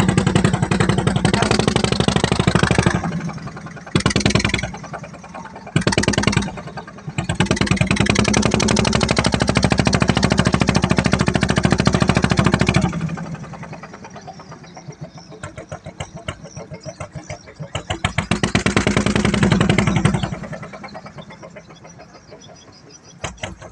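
Engine of a wooden klotok river boat running with a rapid, even putting. It is throttled up and down several times: loud surges with two short blips in between, then it eases back and runs quieter.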